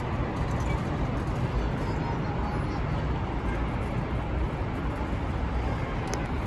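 Steady low rumble of a train running at the station, with no breaks or sudden changes.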